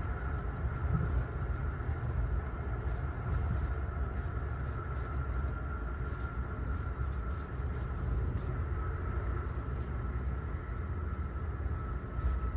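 Amtrak Northeast Regional passenger coach riding at speed, heard from inside the car: a steady low rumble of the wheels on the rails with a thin, steady whine above it and faint scattered ticks.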